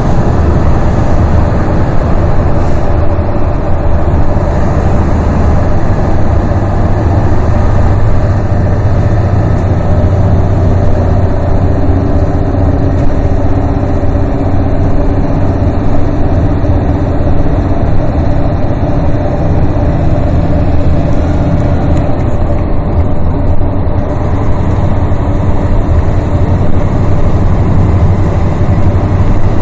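Steady low rumble of a vehicle on the move: engine and road noise with a faint steady hum.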